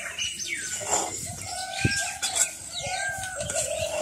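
Bird calls repeat several times: short pitched calls with a few gliding notes. A metal spoon knocks once against an aluminium pot a little under halfway through.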